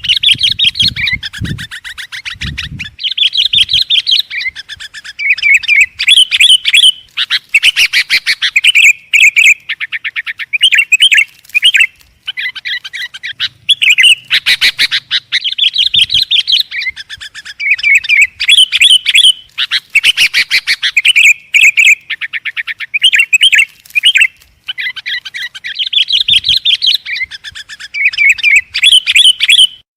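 Sooty-headed bulbul (kutilang) singing loudly and without let-up: phrases of fast, chattering chirps a few seconds long, with short pauses between them.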